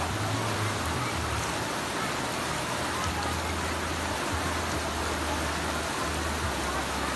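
Steady rushing of falling water, with a low rumble underneath that comes and goes.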